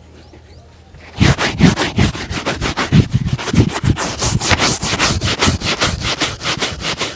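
A leather shoe being buffed with rapid back-and-forth strokes during a shoe shine, about six strokes a second, starting about a second in.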